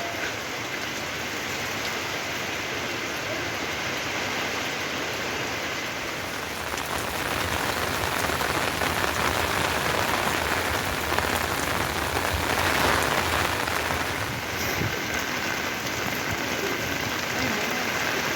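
Heavy rain falling in a steady hiss, growing louder for several seconds in the middle before easing back.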